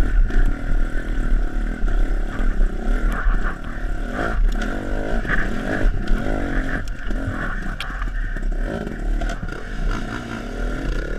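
Dirt bike engine revving up and down unevenly, its pitch rising and falling as the throttle is worked, with some clattering over the rumble.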